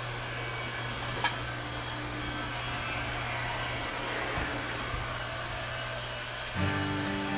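Steady whirring hum of an electric motor, the 220 V motor driving the hydraulic pump of an 8-ton log splitter, with one short click about a second in. Background music comes in near the end.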